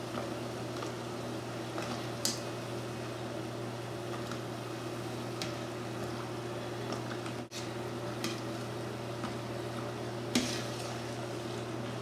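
Salt-cod fritters sizzling steadily as they deep-fry in hot oil, with a metal skimmer clinking lightly against the pot about two seconds in and again near the end, over a steady low hum.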